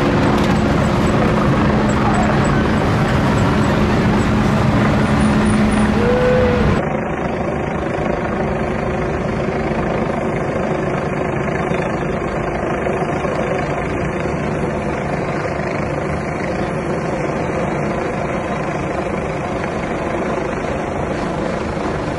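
Helicopter's steady rotor and engine noise mixed with road traffic. The sound changes abruptly about seven seconds in, then carries on steadily, a little quieter.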